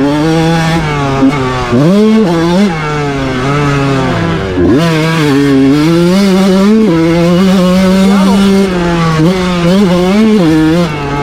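Motocross bike engine at full throttle, its pitch climbing and then dropping sharply again and again as it is ridden hard through the gears.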